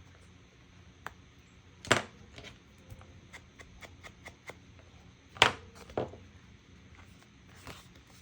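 Objects being handled on a work table: scattered light clicks and taps, with two loud sharp knocks about two and five and a half seconds in and a smaller one just after the second.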